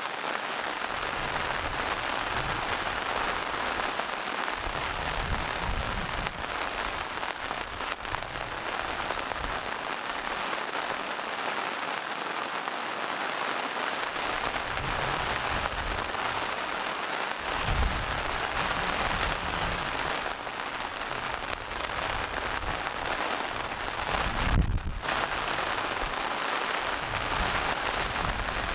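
Steady rain falling on forest leaves and moss-covered rocks, an even hiss of drops, with a few soft low rumbles coming and going, the strongest near the end.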